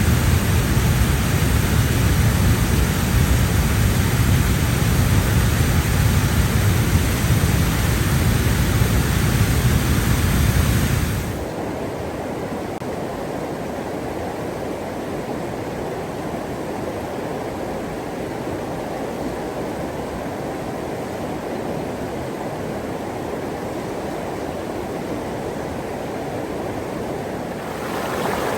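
Steady rushing water noise, loud with a deep low rumble at first; about eleven seconds in it cuts abruptly to a quieter, duller rush of water, and it changes again near the end.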